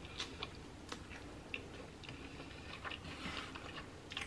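Close-up chewing of a crisp, pan-fried flour-tortilla quesadilla: soft, irregular mouth clicks and smacks.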